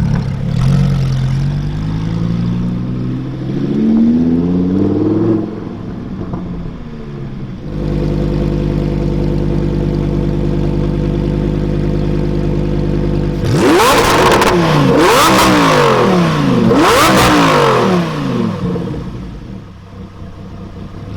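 Lamborghini Huracán Performante's V10 engine revving. The pitch climbs over the first few seconds, then holds steady for several seconds. Past the middle comes a loud series of sharp throttle blips, each rising and falling quickly, before it settles lower near the end.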